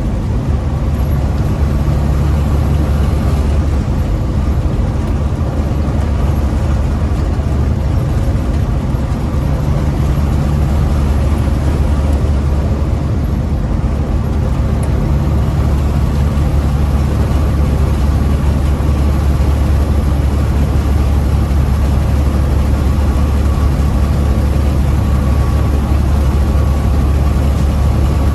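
Big rig truck's diesel engine running steadily while driving, heard inside the cab as a loud, constant low drone.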